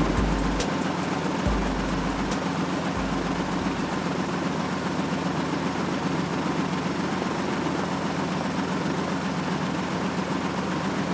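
Steady engine-like hum over a noisy hiss, with a few brief low rumbles in the first three seconds.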